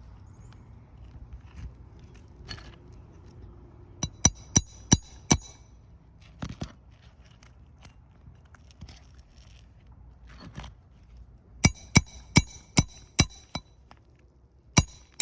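Roofing nails being driven by hand into asphalt shingles: two runs of sharp, ringing metal-on-metal strikes, about five quick blows a third of the way in and about six more near the end.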